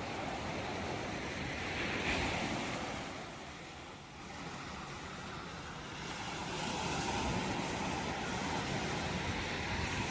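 Ocean surf: waves breaking and washing in, one surge about two seconds in that eases off, then a longer surge from about six seconds on.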